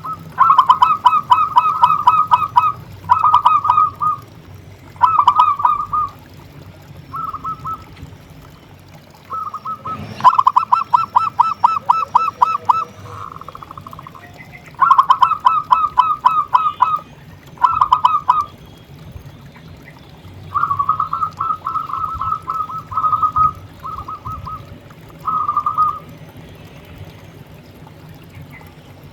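A zebra dove (perkutut) singing: about ten phrases of rapid, evenly repeated cooing notes, each phrase lasting a second or two with pauses between. The song stops a few seconds before the end.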